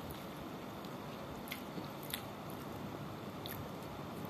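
A person chewing a mouthful of grilled chicken and rice, with a few short, sharp mouth clicks or smacks over a steady background hiss.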